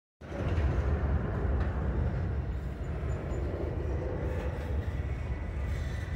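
Intermodal freight train's container cars rolling past on the rails, a steady low rumble of wheels and cars, the train just getting moving again.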